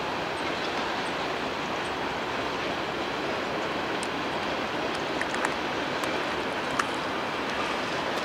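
Freight cars (tank cars and covered hoppers) rolling across a railroad bridge: a steady rumbling wash of wheel and rail noise. From about halfway through come a few sharp clicks and short high squeaks.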